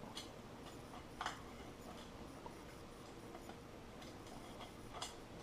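A few faint metallic clicks and ticks of steel wheel spokes tapping against each other and the hub as a spoke is bent and threaded through. The clearest click comes about a second in, another near the end.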